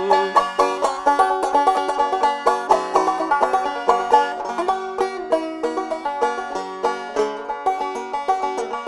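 Acoustic plucked-string instrumental, a quick run of picked notes in a country/old-time style, playing the song's closing bars after the last sung line.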